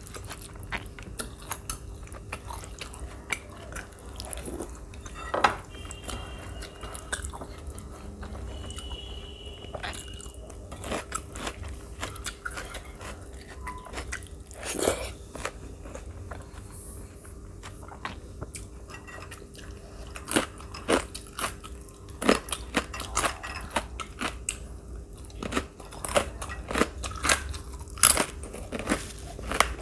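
Close-miked chewing of rice and chicken curry eaten by hand: wet mouth clicks, smacks and crunches, coming thicker in the second half.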